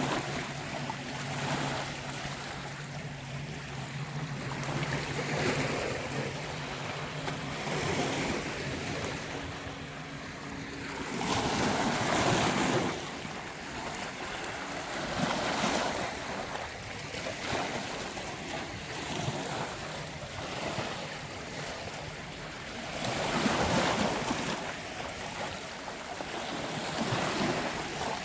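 Sea waves surging and breaking on a beach in repeated swells, the biggest about twelve seconds in and again near twenty-four seconds. A low steady hum runs under the surf for the first eleven seconds or so, then stops.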